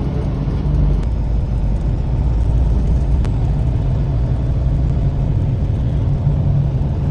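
Semi truck's diesel engine running steadily with a low rumble and road noise as it drives in city traffic.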